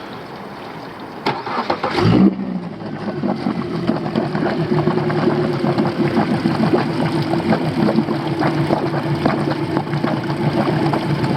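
Suzuki DF90A four-stroke outboard motor cold-started after six months of storage: the starter clicks and cranks for under a second, the engine catches about two seconds in and settles into a steady idle. It starts right up with no hesitation, on old ethanol fuel with no stabilizer.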